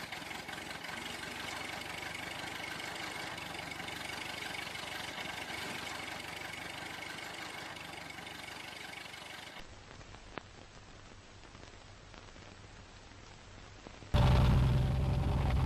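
Vehicle engine noise in three sections that change abruptly. First a steady, hissy engine sound, then a quieter low hum with a single click about ten seconds in, then a loud low engine rumble that starts shortly before the end.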